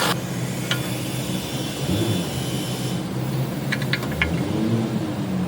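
Car engine idling steadily just after starting, with a few light clicks over it.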